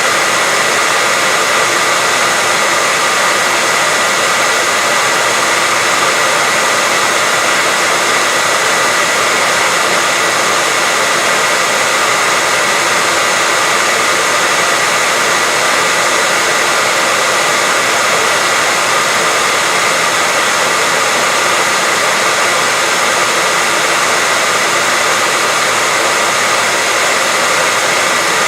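Continuous white noise: an even, unchanging hiss spread over the whole range, with a faint steady whistle-like tone running through it.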